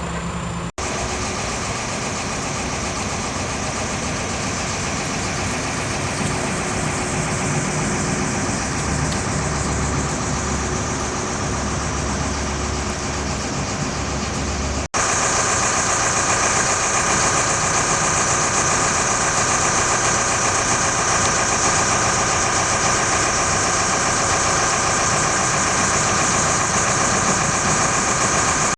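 Heavy diesel engine running steadily, cut off abruptly twice. After the second cut, about halfway through, it is louder, with a steady high whine over it.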